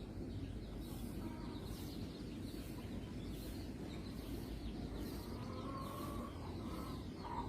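Quiet farmyard background: a low steady noise with faint bird calls, short chirps and a few soft drawn-out calls, the longest about two thirds of the way through.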